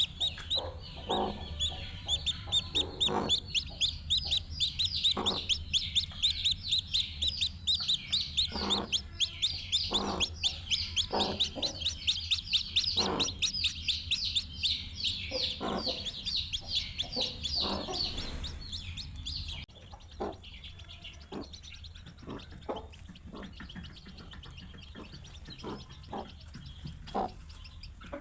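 Newly hatched chicks peeping rapidly and continuously, with a hen clucking in short low calls every second or two. The peeping stops abruptly about two-thirds of the way through, and the clucking carries on more quietly.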